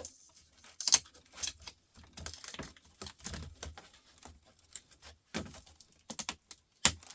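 Irregular clicking and clattering of small plastic and metal laptop parts being handled and pried apart during disassembly, with a sharper knock about a second in.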